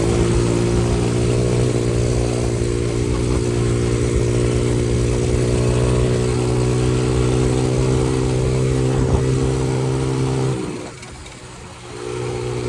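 X-Pro 125cc dirt bike's single-cylinder four-stroke engine running at a steady, unchanging note. Near the end it drops away sharply for about a second and a half, then picks back up.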